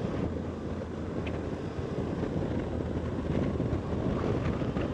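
Motorcycle running steadily at road speed, its engine drone mixed with wind rushing over the rider's microphone.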